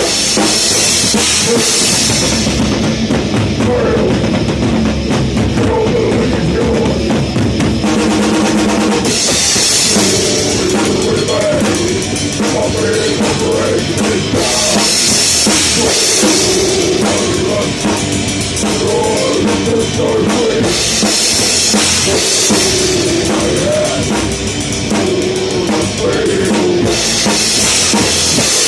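Heavy metal band playing, heard close to the drum kit so the drums are loudest: fast drumming with driving bass drum, under pitched band parts. Stretches of bright cymbal wash of about two seconds come back every five or six seconds.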